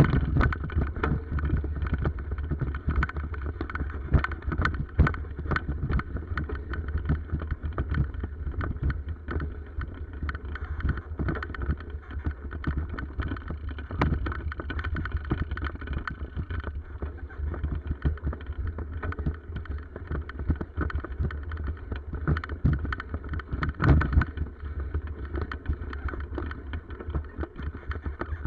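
Steady low rumble with frequent small rattles and knocks, typical of a bicycle ridden over a rough forest track, with wind buffeting the microphone.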